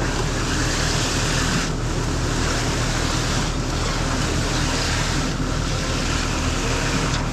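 Concrete pump running steadily with its engine under load and a loud hiss. The hiss breaks briefly about every two seconds in an even rhythm as the pump cycles.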